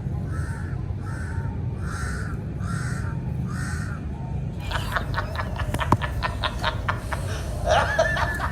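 A crow cawing in a steady series, about two caws a second, for the first half. It is followed by a busier stretch of quick clicks and short calls.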